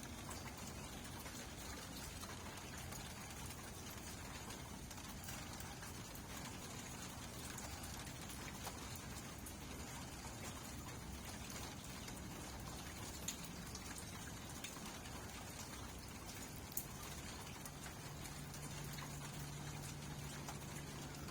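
Steady rain falling, with a few sharper drops standing out now and then. A low steady hum comes in near the end.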